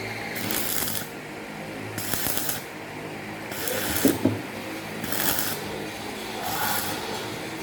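Rhythmic rasping strokes, one about every second and a half, over a steady low hum, with a brief sharper knock about four seconds in.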